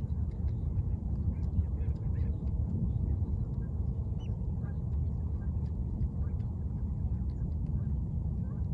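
A steady low rumble with faint, scattered bird calls over it.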